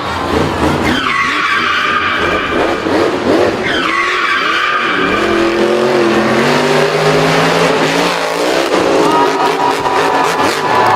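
Race car engine revving with squealing tyres. Sharp falling whines come about a second and about four seconds in, the engine pitch climbs in the middle, and a steady high whine holds near the end.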